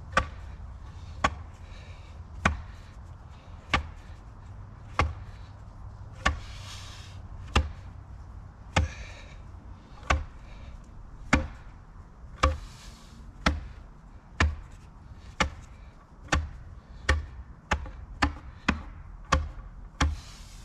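Hand tamp pounding gravel and sandy soil down around a fence post in its hole: a steady series of dull thuds, about one a second, coming faster near the end.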